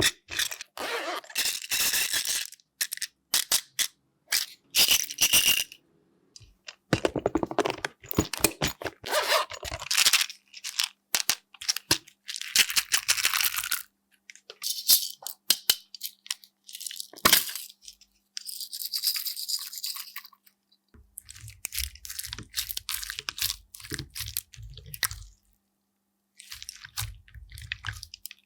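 Slime being squished, pressed and stretched by hand, giving crackly, clicky and squishy sounds in short takes cut apart by moments of silence. In the last third, low soft thuds come with the crackle as the slime is pressed or slapped.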